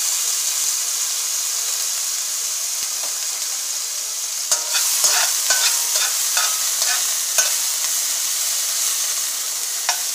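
Pork fat and a spoonful of sofrito sizzling in a metal pan, with a steady frying hiss. A metal spoon scrapes and clinks against the pan as the food is stirred, most busily from about four to seven and a half seconds in and once more near the end.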